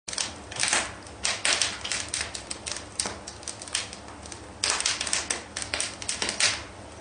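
Bricklaying work: a steel trowel scraping and knocking on bricks and mortar, a rapid irregular run of clicks and short scrapes.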